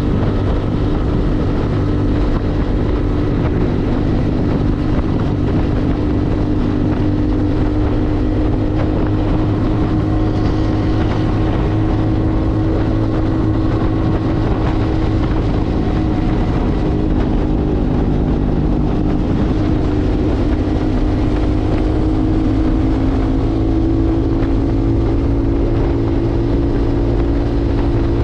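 Motorcycle engine running at a steady cruise during the ride, its note drifting slowly up and down, over a heavy low rumble of wind and road noise.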